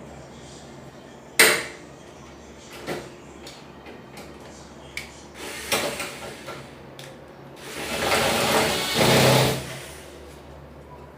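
Knocks and clatter of tools and metal parts being handled: one sharp knock, several lighter clicks, then a louder rushing noise lasting about two seconds near the end.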